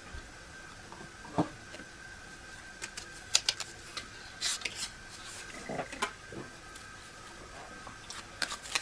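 Tarot cards being handled on a table: scattered light clicks and taps, a cluster of them between about three and six seconds in. A faint steady high-pitched tone runs underneath.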